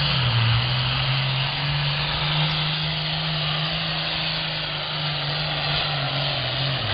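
John Deere 7810 tractor's turbocharged diesel engine running flat out under load as it pulls the sled. Its pitch holds steady and then drops near the end.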